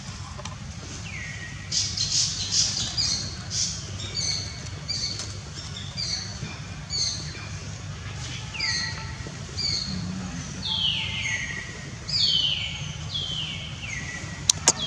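A bird calling over and over, about two calls a second: short high notes and quick falling whistles. A few sharp clicks come near the end.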